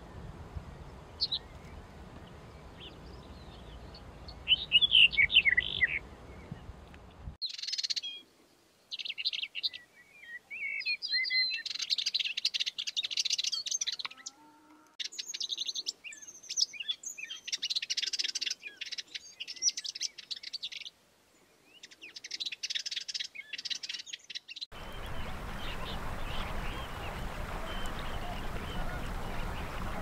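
Wild songbirds: a brief high call over a steady background hiss, then, after an abrupt change in the background, a bird singing high phrases a second or two long with short pauses between them, before the background hiss returns near the end.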